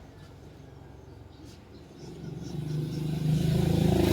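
Vehicle engine running, fairly quiet at first, then growing steadily louder from about halfway through.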